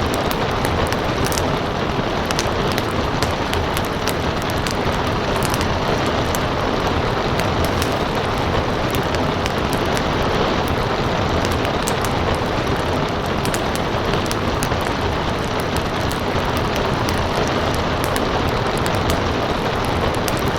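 Steady rain on a surface mixed with a crackling wood fire, with frequent sharp pops and snaps over a dense hiss.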